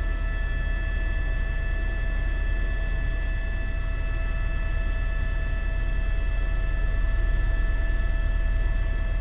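Steady drone of a news helicopter heard from inside the cabin: a deep, fast rotor pulsing under several steady whining tones from the turbine.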